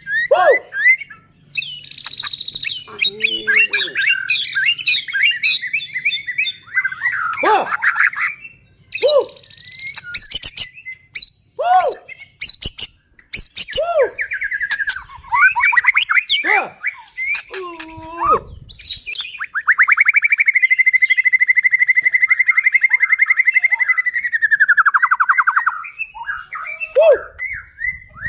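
White-rumped shama (murai batu) singing loud, varied phrases of whistles, slurred notes and harsh squawks. About twenty seconds in it holds a long, rapid, even rattle (kretekan) for about six seconds, the sound of an excited, fired-up bird.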